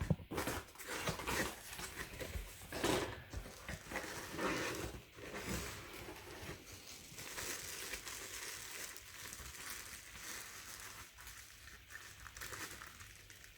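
Packaging being handled and crinkled during unboxing: irregular rustles and crackles, busier in the first half and quieter near the end.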